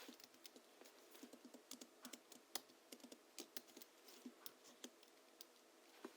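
Faint, steady typing on a Hansung GHL-5X keyboard tuned with Krytox-lubricated springs and 50 g rubber domes: a quick, irregular run of soft keystroke clacks, several a second.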